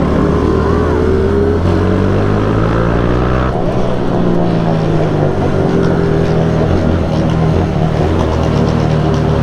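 Motorcycle engine running while riding, its pitch climbing, dropping suddenly at a gear change about three and a half seconds in, then rising slowly again.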